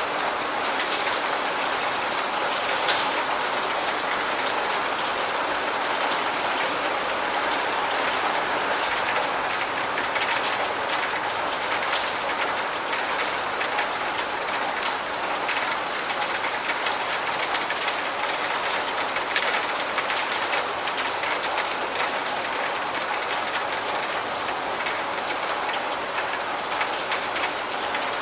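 Steady rain: an even hiss with frequent sharp ticks of individual drops striking.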